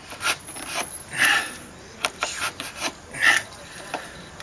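Wood chisel scraping and paring wood in a few short strokes, cleaning out a poorly routed strike-plate pocket in the door jamb. The strongest strokes come about a second in and again after about three seconds, with a few sharp ticks between them.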